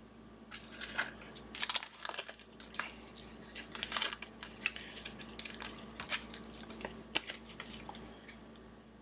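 Crinkling and tearing of a foil trading-card pack wrapper being handled and opened, an irregular run of sharp crackles that dies down near the end.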